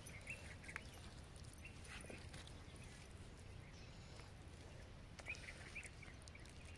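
Faint, quiet outdoor ambience with a few short, distant bird calls: a cluster near the start and another about five seconds in.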